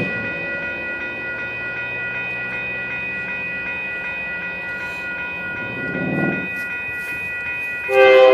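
Diesel locomotives running in a multi-unit lash-up with a steady high-pitched whine over a low rumble. A short horn sound comes about six seconds in, and the multi-chime horn starts blowing loud near the end.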